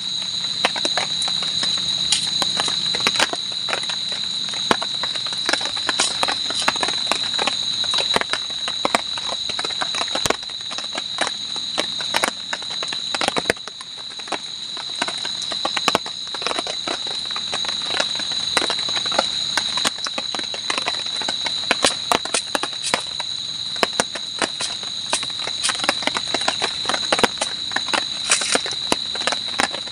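A steady high-pitched drone of night insects, with many irregular sharp clicks and crackles close by.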